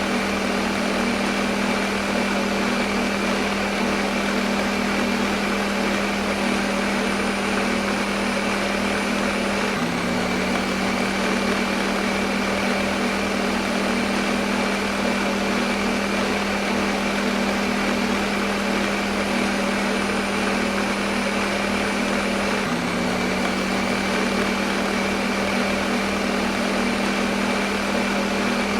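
Electric kitchen blender running continuously: a steady motor hum with a thin high whine above it and an even whirring noise. Twice the hum briefly dips and settles back.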